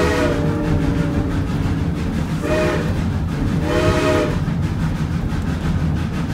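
Steam whistle of a 1926 Baldwin 2-8-0 narrow-gauge locomotive: a long blast that ends about half a second in, then two short toots about a second apart. A steady low rumble of the running train goes on underneath.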